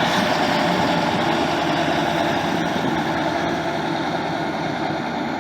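Truck engine idling steadily, growing slightly fainter.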